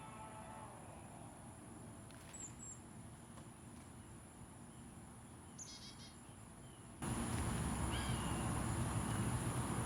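Backyard songbirds giving a few short, high chirps over a steady high-pitched insect drone. About seven seconds in, a louder background noise abruptly takes over.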